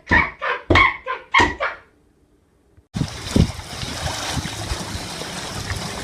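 A dog barks about five times in quick succession, then falls silent. About three seconds in, the sound switches abruptly to a steady noisy hiss of outdoor ambience with a few low thuds.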